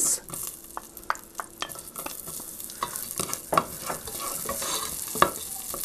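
Onion wedges sizzling in hot rapeseed oil with mustard and cumin seeds in a pot, stirred with a wooden spatula, with scattered sharp clicks and knocks. The sizzle grows louder after about two seconds.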